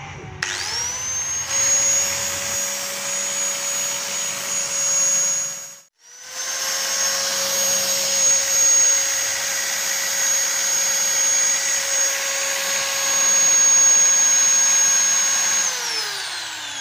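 Ryu RSG 100-3 4-inch electric angle grinder with a cutting wheel, switched on and running free with no load: a high whine that rises as it spins up and then holds steady. It cuts out briefly about six seconds in, runs steadily again, and winds down near the end as it is switched off.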